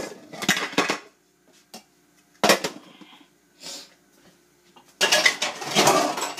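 Dishes and kitchen utensils clattering as they are loaded into a dishwasher, in several separate bursts of knocks and rattles, the longest and loudest near the end.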